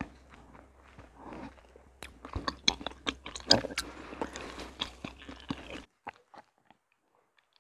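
Close-up chewing of honeycomb, many small clicks and crackles packed close together. It cuts off suddenly about six seconds in, leaving near silence with a few faint clicks.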